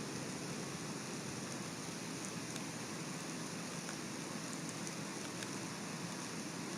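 Steady rain falling, an even hiss with a few faint, sharp ticks of single drops.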